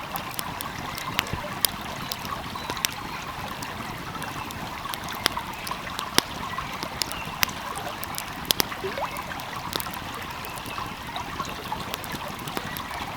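Wood fire crackling, with sharp, irregular pops, over the steady rush of a flowing stream.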